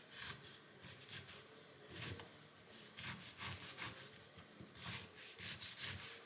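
Short scraping or rubbing strokes in irregular groups, with a pause between groups.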